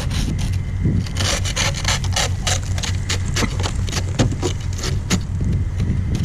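Plastic ice scraper scraping ice off a car windshield in rapid short strokes, about five a second, starting about a second in and stopping near the end. A steady low hum from the running car, its defrost and heat on, lies underneath.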